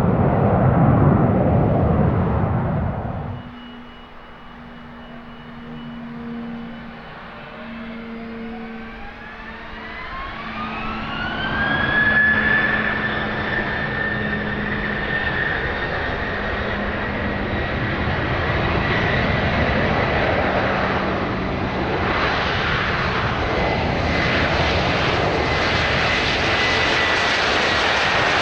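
Business jet engines spooling up: a turbine whine climbs steeply over about four seconds, then holds at a high steady pitch while the jet roar builds, as for a takeoff. It follows a loud roar that cuts off abruptly about three seconds in.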